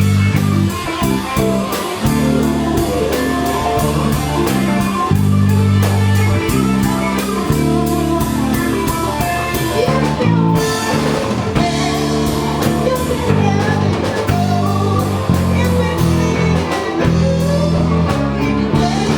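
A band playing rock music, with electric guitar, bass and drum kit keeping a steady beat.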